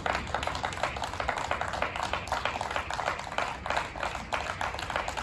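Spectators applauding at a tennis match: a dense, steady patter of handclaps.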